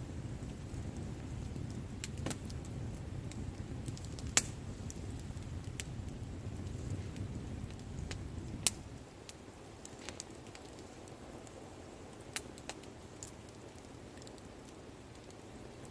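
Wood campfire crackling, with scattered sharp pops. A low rumble under it stops about nine seconds in.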